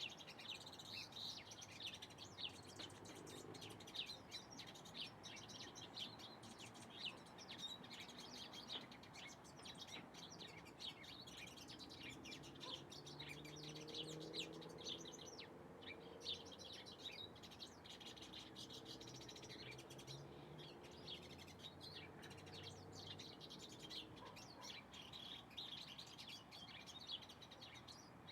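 Small birds chirping in quick, overlapping calls. About halfway through, a faint low drone sits beneath them.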